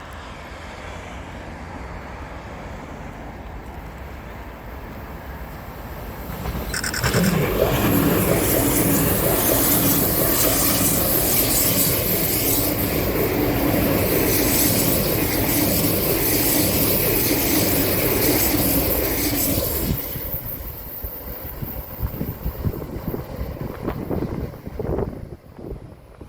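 A train passing on the line: its noise builds up, runs loud for about thirteen seconds as it goes by, then fades away. A brief high tone sounds just as it reaches full loudness.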